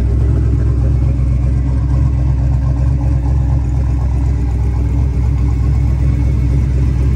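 Twin-turbo 5.3 LS V8 in a 1971 Chevrolet C-10 idling with a steady, even low rumble.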